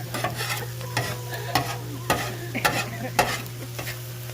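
Chopped Brussels sprouts sizzling on a 22-inch Blackstone gas griddle as they are stirred and tossed, with about five sharp scrapes and clacks of a spatula on the steel top.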